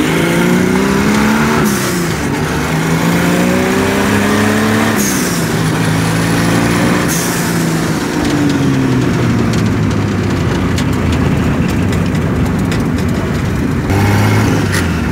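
Turbocharged Chevette engine heard from inside the cabin, accelerating hard: its pitch climbs, drops sharply at gear changes about two and five seconds in, each with a short hiss, then falls away as the car eases off around the middle, over steady road and wind noise.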